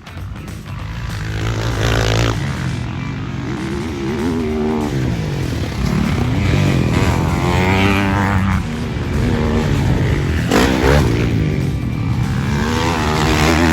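Motocross dirt bike engine revving hard and easing off again and again, its pitch climbing and dropping several times as it rides the track.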